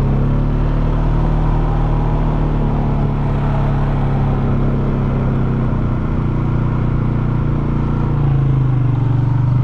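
Polaris Sportsman 570 ATV's single-cylinder engine running steadily at low speed. The engine note shifts slightly lower and grows a little louder about eight seconds in.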